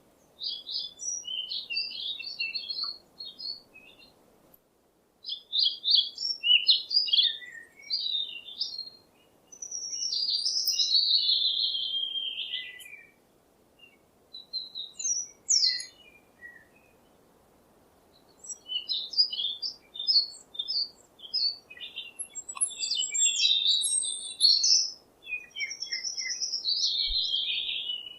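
Small songbirds chirping and singing in bursts of quick, high-pitched notes separated by short pauses. A longer, falling warble comes about ten seconds in.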